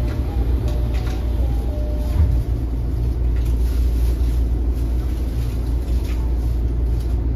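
Interior sound of a Tokyo Metro 05 series commuter train car: a steady low rumble with a few faint light clicks.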